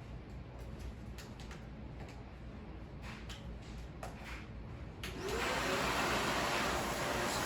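Vacuum cleaner switched on about five seconds in: its motor spins up with a rising whine into a loud steady rush of suction. Before that, a few light clicks and handling sounds over a low hum.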